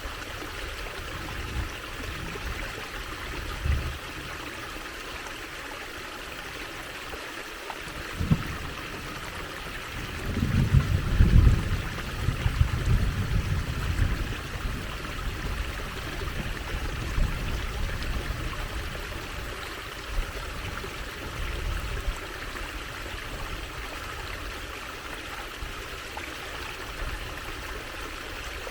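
Water trickling and flowing steadily in a stream. Low rumbles break in at times, loudest in a stretch around the middle, with a brief knock a little before it.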